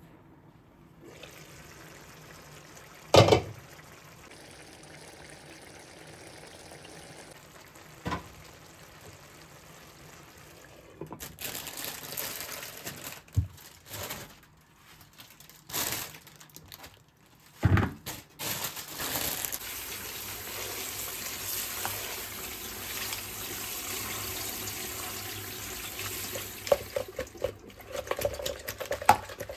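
Water running from a kitchen tap into a sink as a steady hiss through the second half, with a few sharp knocks and some clatter earlier and near the end.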